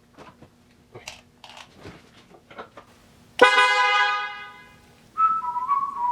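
Triumph TR6's electric horn, sounded through a newly installed horn button, giving one loud blast about three and a half seconds in that lasts about a second and then fades. Light clicks of handling come before it, and a quieter, higher tone follows near the end.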